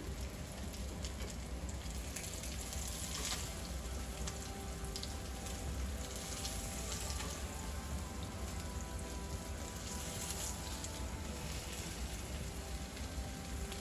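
Cabbage cutlets frying in canola oil in a skillet: a steady crackling sizzle, with a few sharper clicks as a fork turns the patties.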